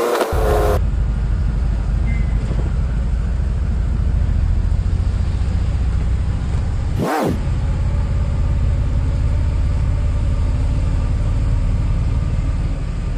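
Car on the move: a steady low rumble of engine and road noise. A short sweep falls and rises at the start and again about seven seconds in, where the footage cuts.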